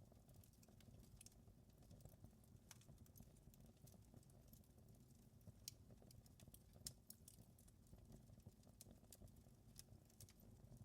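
Fireplace crackling faintly: scattered small pops and snaps at irregular intervals over a low steady rumble, with a couple of sharper snaps around the middle.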